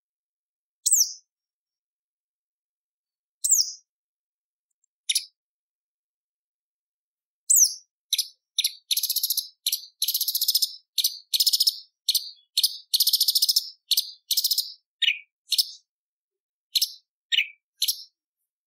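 Orange-bellied leafbird (cucak cungkok) singing. It gives a few single high, sharply down-sliding calls a couple of seconds apart, then from about seven seconds in a fast run of scratchy chattering phrases.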